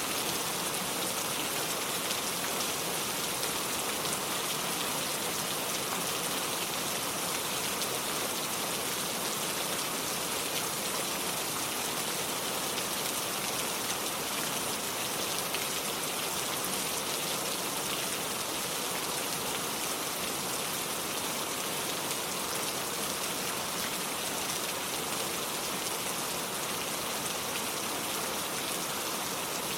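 Steady rain falling, an even hiss of drops on surfaces with no breaks or distinct events.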